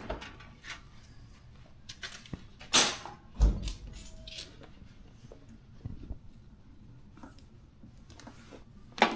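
Scattered knocks and clicks of tools and equipment being handled, with a brief hiss a little under three seconds in and a low thump just after.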